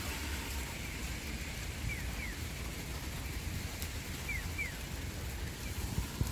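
Outdoor ambience: a steady low rumble with pairs of short, falling high chirps about every two and a half seconds.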